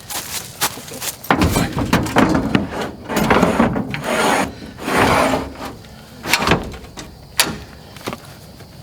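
Scraping and rubbing of gear being handled and slid into place, with scattered knocks and two sharp clicks near the end as something is shut.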